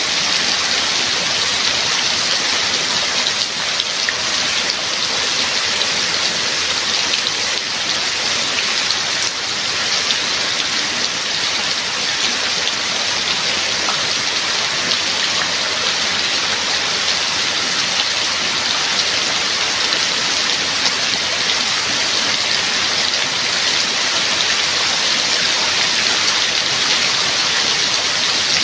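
Steady heavy rain: a dense, even hiss of drops falling on surfaces, with no thunder.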